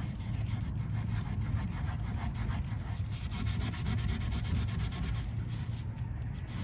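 A rag with car soap rubbed quickly back and forth over a soot-coated chrome exhaust tip, a steady stroking scrub over a low, even rumble.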